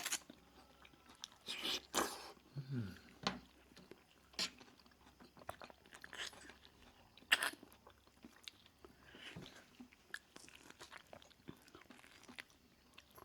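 A person eating: irregular crunching bites and chewing, with sharp crackly snaps every second or so.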